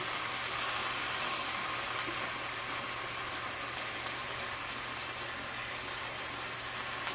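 Steady sizzling of potatoes and chuck steak browning in hot oil in frying pans on a gas stovetop.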